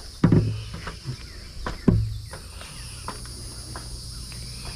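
Crickets and other insects chirping steadily, with a few sharp knocks in the first two seconds and a faint low hum after them.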